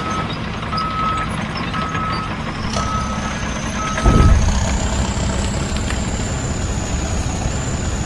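A heavy vehicle's reversing alarm beeps five times, about once a second, over the steady hum of its engine; the beeping stops about four seconds in. A high, thin whine starts about three seconds in, and there is a low thud at about four seconds.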